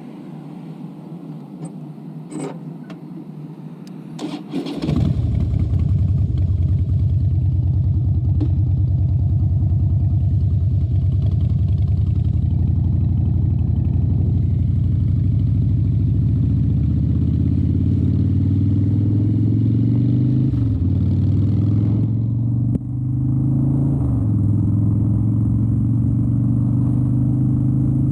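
A few clicks, then about five seconds in a Harley-Davidson Dyna Wide Glide's 103-cubic-inch V-twin fires up and runs steadily. In the second half its note climbs, with two brief dips.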